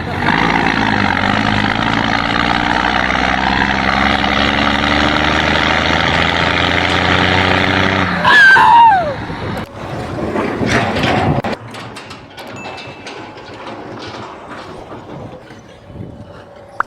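A large engine runs steadily for about eight seconds and then stops, with a loud falling squeal. Quieter scattered knocks and clatter follow.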